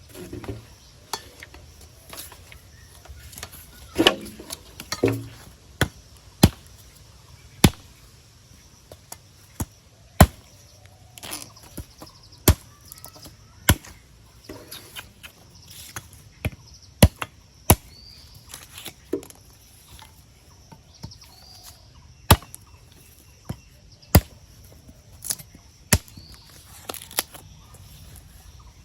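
Repeated sharp chopping knocks, about one every second or so, at an uneven pace and some louder than others, typical of cutting material by hand to build a trap.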